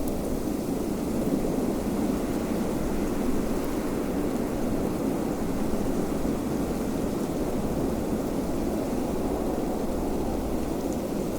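Wind blowing steadily: a low, even rush with no gusts or breaks.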